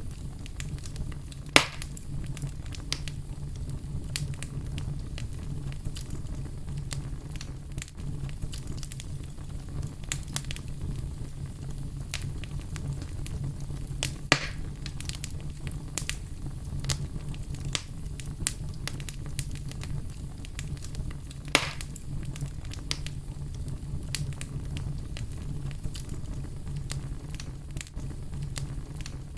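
Fire crackling steadily, with a constant low rumble and a stream of small crackles. Three louder pops stand out: one about a second and a half in, one about halfway through and one about two-thirds of the way through.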